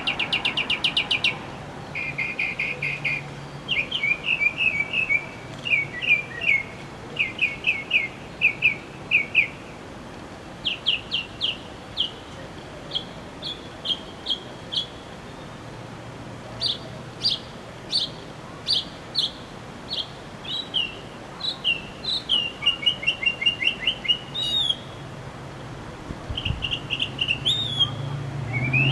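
A songbird singing: phrases of short, repeated chirps and quick trills, varying from phrase to phrase, with brief pauses between them.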